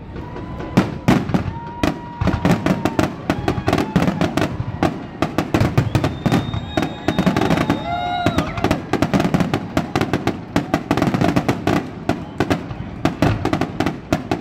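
Fireworks display: dense, rapid crackling and popping of bursting shells throughout. Steady whistling tones sound over it in the first few seconds, and a higher whistle rings out about six seconds in.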